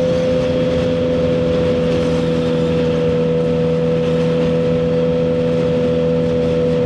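2023 Suzuki GSX-R1000R's 998cc inline-four running at a steady highway cruising speed through a CS Racing full exhaust, holding one even pitch, with wind rush over it.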